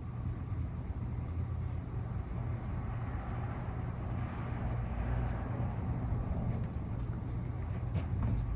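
Steady low rumble of a vehicle engine, with a broader noise that swells and fades again around the middle.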